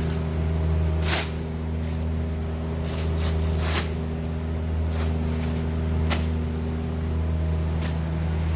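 A steady low mechanical hum, with a few sharp clicks and knocks over it: about a second in, around three to four seconds in, and about six seconds in.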